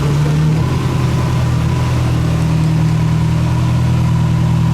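Rally car engine idling steadily, its pitch settling slightly lower about half a second in and then holding.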